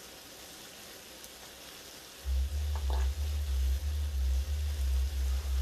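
Faint steady sizzling of sausage frying in a pan. About two seconds in, a deep, even thumping starts, a little over two beats a second, and it is louder than the sizzle.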